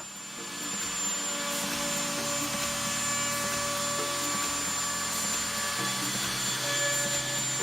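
Electric router running steadily with a 1/8-inch round-over bit, cutting a rounded profile along the edges of an oak door's panels. Its pitch shifts a little every couple of seconds as the cut's load changes.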